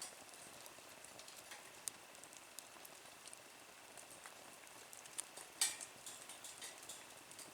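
Small wood fire burning in a Nature Stove, crackling faintly with scattered sharp pops over a low hiss; the loudest pop comes a little past halfway.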